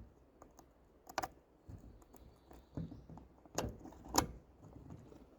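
Hand-handled metal hardware, a nut, bolt and bracket part, clinking and knocking in a series of sharp clicks with a few dull thuds, the loudest two near the end.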